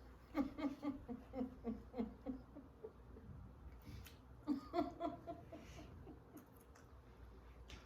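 A woman laughing in a quick run of 'ha' pulses, about four a second, for roughly two seconds. A second short burst of laughter follows about four and a half seconds in.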